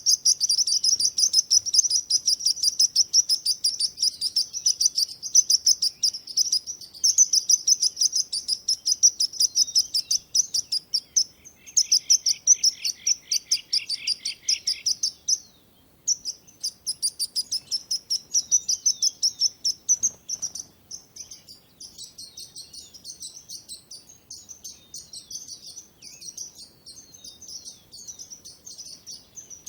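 A chorus of small birds chirping rapidly and continuously in high-pitched notes, with a lower trilling run about twelve seconds in, a brief pause near fifteen seconds, and softer chirping from about twenty-one seconds on.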